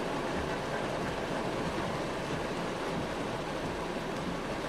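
Steady rushing noise of water, with no breaks or strikes.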